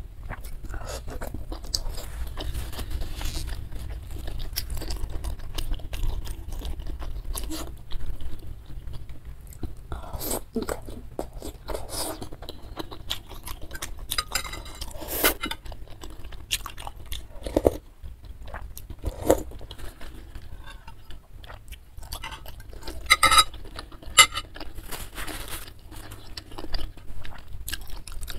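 Close-miked chewing and biting of beef-tendon meatballs (bakso urat): irregular wet mouth clicks and smacks, with occasional clinks and scrapes of a fork and spoon against the bowl.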